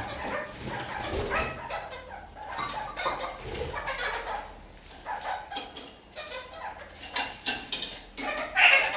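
Red-crowned kakariki chattering in a quick run of short, clucking calls, with sharp clicks and taps in among them in the second half.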